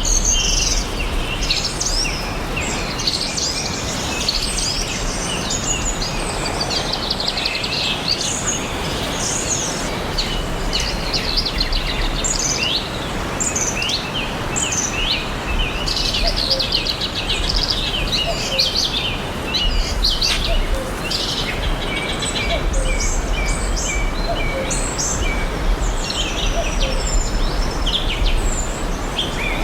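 Many forest birds chirping and singing together, a dense chorus of short chirps, trills and whistles over a steady background hiss.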